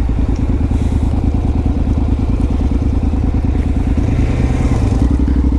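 2015 Honda CTX700's parallel-twin engine running steadily under way, a fast, even pulsing throughout.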